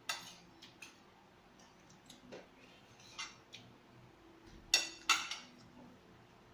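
Eating utensils clinking lightly against a bowl several times, with the loudest two clinks in quick succession about five seconds in.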